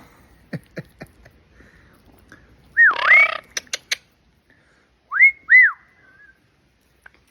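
Parrot whistling: one swooping whistle that dips and climbs again about three seconds in, then two short whistles that rise and fall a couple of seconds later, with a few sharp clicks between.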